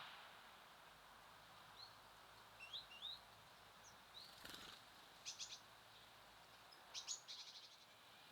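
Faint calls of small songbirds: a few short rising chirps in the first half, then a quick clicking trill about five seconds in and a longer one near the end, over a soft outdoor hiss. A brief soft knock comes midway.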